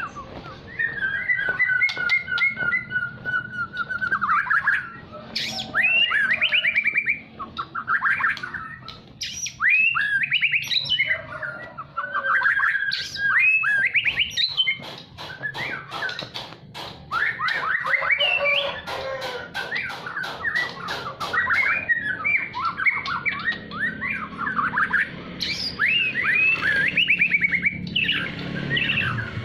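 White-rumped shama (murai batu) singing a long, varied song of clear whistles and fast trills, with a rapid run of clicking notes in the middle.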